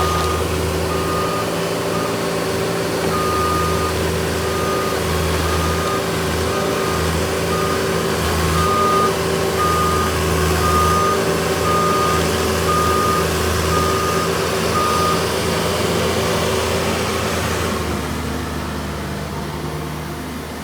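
Cat 305E mini excavator's diesel engine running steadily while a high-pitched warning alarm beeps over and over, typical of a machine's travel alarm while tracking. The beeping stops about fifteen seconds in, and the engine note drops near the end.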